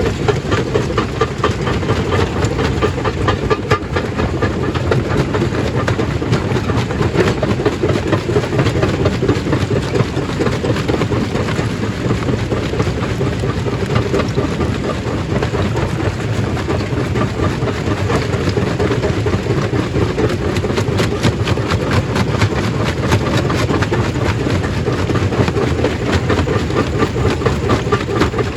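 Stone crushing machine running, rocks breaking and clattering through it: a dense rattle of small knocks over a steady low rumble.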